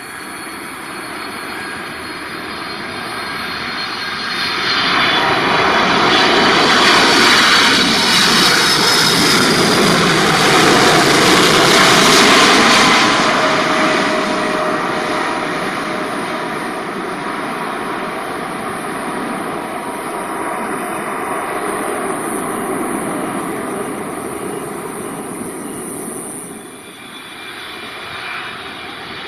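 Boeing 747-400F freighter's four jet engines passing low overhead on landing approach: the jet noise builds over a few seconds, is loud for several seconds with whining tones that fall in pitch as it passes, then fades. Near the end the sound of the next approaching jet starts to rise.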